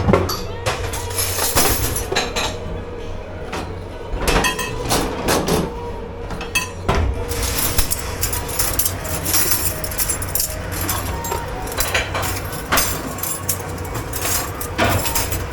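Plates, glasses and cutlery clinking and knocking together as dishes are handled at a commercial kitchen dish station, many sharp clatters in irregular succession over a steady hum.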